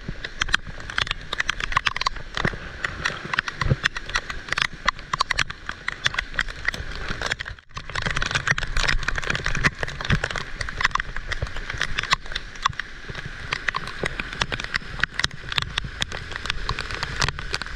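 Heavy rain, a dense crackle of drops hitting close to the microphone, with a short break about seven and a half seconds in.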